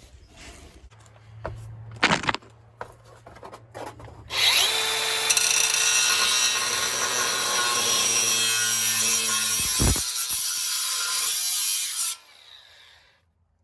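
A few knocks as an exhaust pipe is handled, then a power tool cutting through the pipe, running steadily and loudly for about eight seconds before stopping suddenly.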